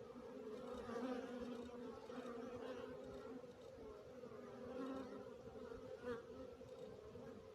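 Honeybees buzzing in flight at a hive, a steady hum of many wingbeats from foragers coming and going, swelling louder now and then as bees pass close.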